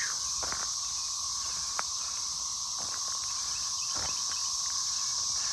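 Steady high-pitched chorus of cicadas, with a few scattered short knocks.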